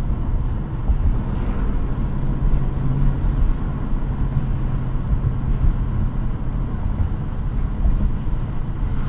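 A 2020 Ford Mustang Bullitt's 5.0-litre V8 running at a steady cruise, its exhaust drone heard from inside the cabin along with road and tyre noise.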